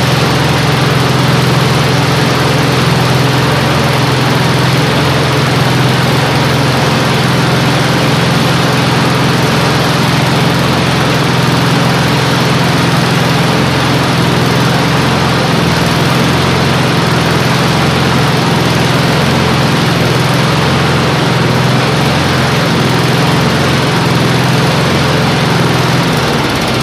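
Snapper walk-behind lawn mower's small Tecumseh engine running at a steady speed. It keeps running now that the new carburetor's main jet has been backed out a turn or two, which was why it would not stay running.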